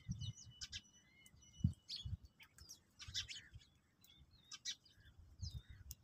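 Small birds chirping and twittering in short, scattered calls, with soft low thumps underneath.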